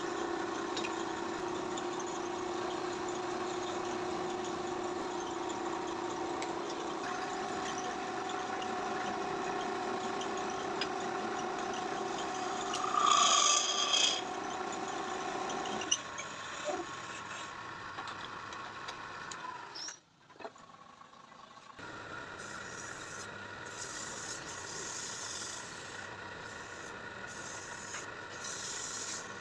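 A small motor running with a steady hum, then rubbing and scraping on wood. A brief, louder, higher sound comes about 13 seconds in, and the sound drops out briefly around 20 seconds.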